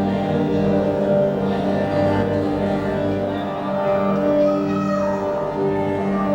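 A long tuning tube resonating to the footsteps and voices of a passing crowd, which it turns into a continuous overtone series. Evenly stacked steady tones sit over a low fundamental near 100 Hz, with individual overtones swelling and fading as the crowd sounds change.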